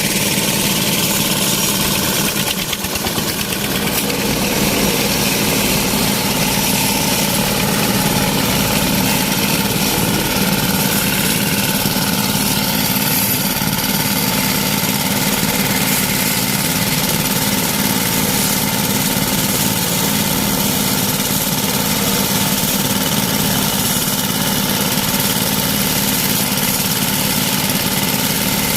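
Small engine of a portable vibrating ballast tamper running steadily under load, compacting railway track ballast. The level dips briefly about three seconds in.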